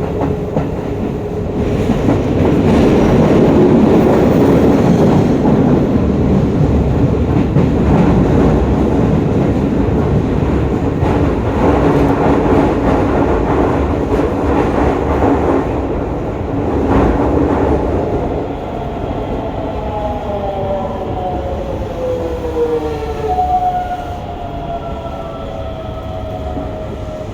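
Hokuso 7301 electric train running at speed, with a loud rumble of wheels on rail and occasional clacks over rail joints. From about two-thirds of the way through, the GTO-VVVF inverter and traction motors whine in several tones that fall in pitch as the train slows.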